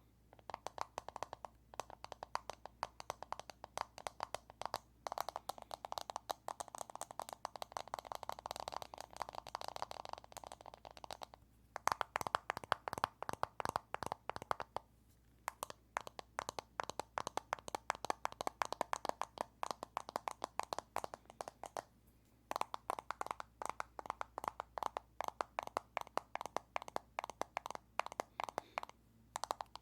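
Fingers tapping rapidly on an earphone case, many quick clicks a second in runs of several seconds with brief pauses between, a louder run about twelve seconds in.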